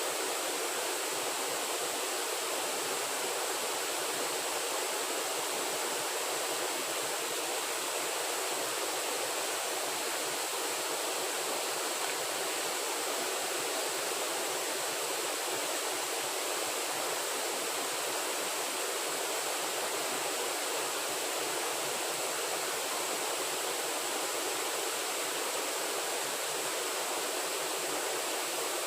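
Steady, even rush of running water with no breaks, and a faint high steady tone over it.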